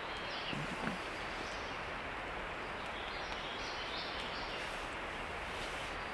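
Steady outdoor background hiss with a few faint, high bird chirps.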